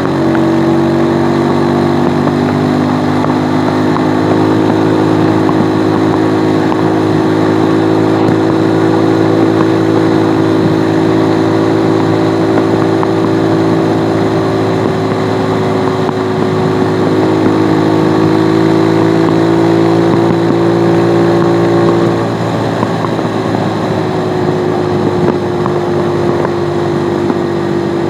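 Stels Flex 250's single-cylinder four-stroke engine running at a steady cruise under the rider. It eases off and runs a little quieter and lower from about twenty-two seconds in.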